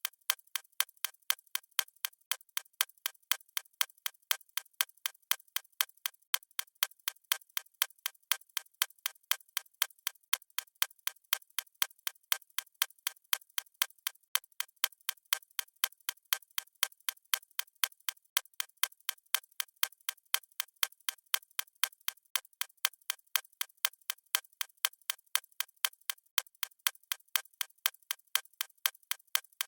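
Clock-style ticking sound effect, sharp, light clicks repeating at a steady, even pace.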